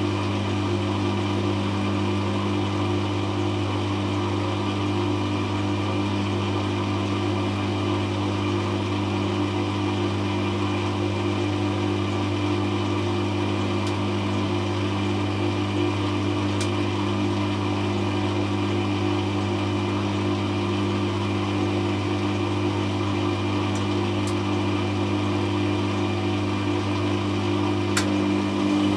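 Hoover Classica 1100 washing machine on an intermediate spin with the drum held at about 500 rpm. The motor and drum give a constant hum that does not change in pitch or level.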